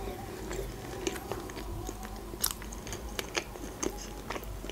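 Close-miked chewing of a mouthful of soft fast-food burger: irregular wet mouth clicks and smacks, one sharper click about two and a half seconds in.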